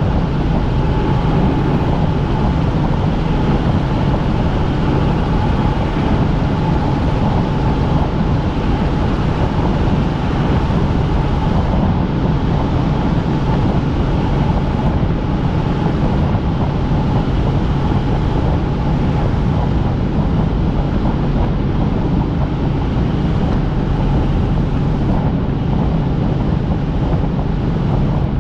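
Helicopter in flight: steady, loud rotor and engine noise with a constant low hum and a fainter higher tone, unchanging throughout.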